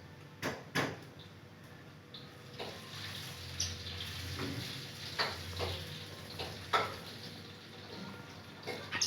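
Budgie nibbling and tearing at spinach and neem leaves with its beak: irregular small clicks and crackles, about ten over the span.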